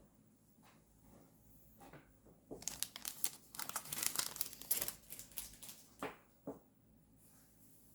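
Paper crinkling and rustling as journal paper and sticker sheets are handled: a quick run of fine crackles for about three seconds, followed by two short taps.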